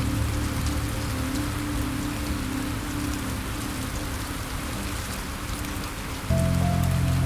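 Steady rain falling with fine droplet patter, over soft sustained low music chords. A new, louder low chord comes in about six seconds in.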